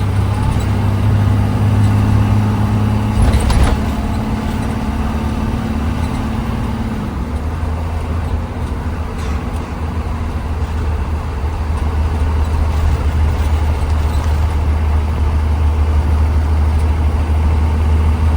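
Cabin sound of a moving 2020 Blue Bird Vision school bus: a steady low engine drone with road noise. There is a single knock or rattle about three and a half seconds in, and the engine note drops a little about seven seconds in.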